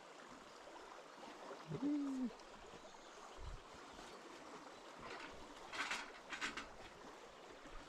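A river running steadily, a soft rushing hiss. A short vocal sound about two seconds in, and a few short crunching knocks around five to six and a half seconds in.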